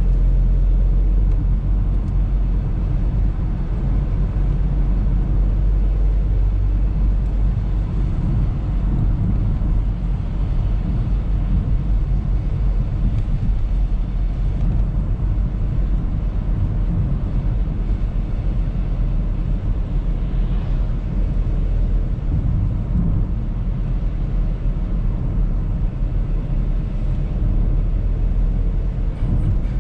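Audi A3 car driving, a steady low rumble of engine and road noise.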